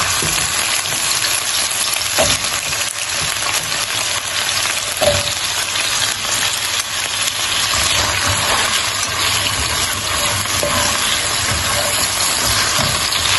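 Diced raw potatoes and sliced onions sizzling in hot oil in a non-stick frying pan, a steady frying hiss, with a few knocks as potato pieces go into the pan and a slotted spatula stirring them near the end.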